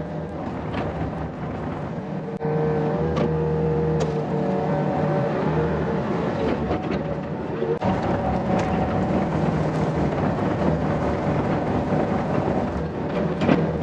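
Yanmar ViO50 mini excavator's diesel engine running steadily at working revs, with a few sharp knocks. The engine sound changes abruptly twice, about two and a half seconds in and again near eight seconds.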